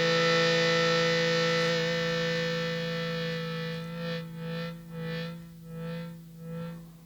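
A harmonica chord sampled into an original Teenage Engineering OP-1, played back as a looped sustained chord. About halfway through it begins to pulse in and out, roughly once every two-thirds of a second, and fades away.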